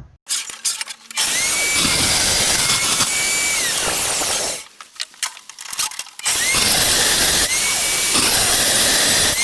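Power drill boring into wood in two runs of about three seconds each, its motor whine dipping and recovering as the bit bites. These are the holes for the bolts that lock the fence to the T-track. Short clicks and knocks come before and between the two runs.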